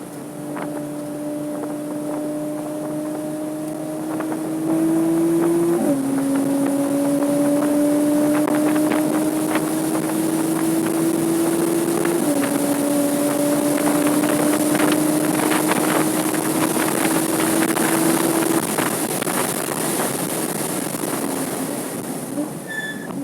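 Porsche Cayman S flat-six engine under acceleration, heard from inside the car: the engine note climbs steadily, drops with an upshift about six seconds in and again about twelve seconds in, then climbs once more before falling away near the end as the driver lifts off. Wind and road noise run underneath.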